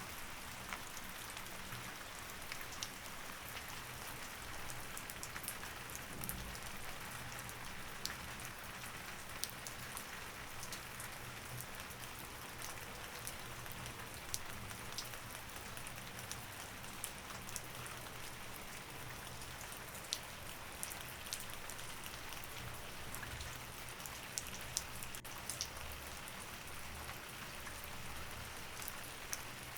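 Steady rain, with frequent sharp ticks of single drops hitting a hard surface.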